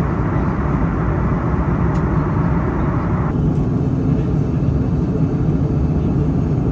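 Airbus A321neo cabin noise in flight: a steady low rush of airflow and engines. About halfway through, the higher part of the rush drops away suddenly, leaving a deeper, duller rumble.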